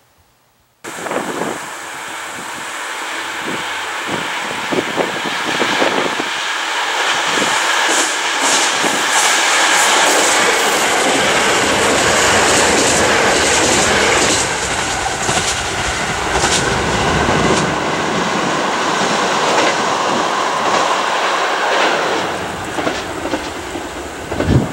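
Diesel train on the Kyoto Tango Railway passing close by: loud running and wheel noise with repeated clacks of wheels over rail joints, easing off as it moves away, with one sharp clack near the end.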